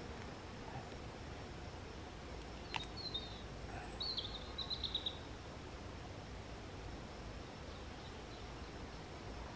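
Quiet outdoor background with one sharp click, then a small bird giving a few short, high chirps about three seconds in and a quick trill of chirps about four to five seconds in.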